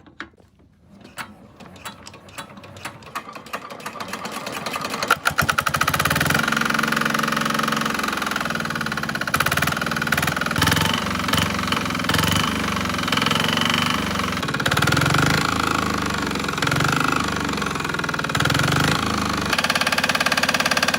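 Restored R185 single-cylinder diesel engine starting up: a series of knocks that quickly speed up and grow louder, then it catches about five seconds in and runs steadily at a loud, knocking beat.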